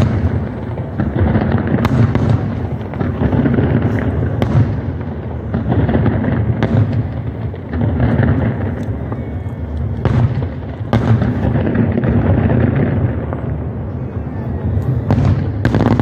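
Dense fireworks barrage: continuous rapid booming that merges into a rumble, with sharp cracks standing out every few seconds.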